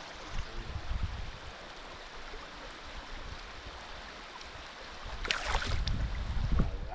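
Shoal river water rushing steadily, with low bumps and a brief splash about five seconds in as a shoal bass is let go into the water.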